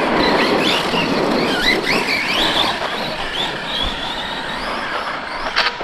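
Two brushless electric RC trucks racing on dirt: high motor whines rising and falling with the throttle over a steady rush of tyres on the ground, with a sharp knock near the end.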